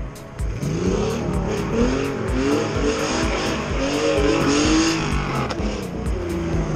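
A car's engine revving up and down again and again as it is driven around the track, with a music track with a steady beat underneath.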